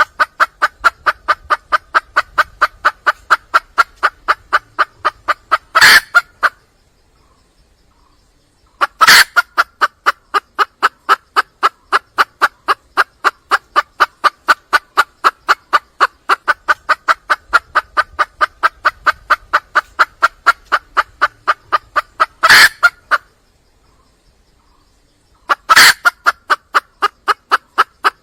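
Red junglefowl hen calling in long runs of rapid, evenly repeated clucks, about four a second, the hen's mating call to draw a cock. The runs break off twice into short silences, each break marked by a louder, sharper note.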